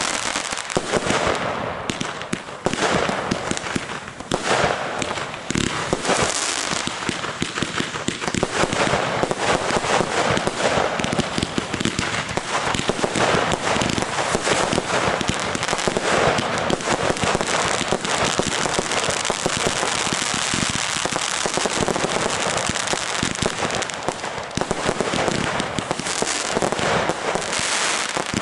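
Fireworks and firecrackers going off without pause: a dense, continuous crackle of many sharp pops and bangs.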